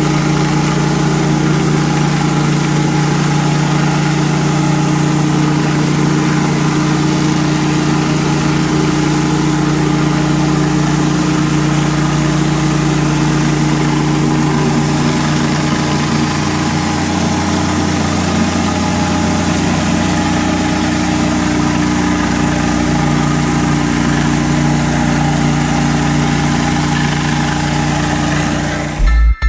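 Pressure washer's gas engine running steadily, with the hiss of spraying water. It cuts off abruptly near the end.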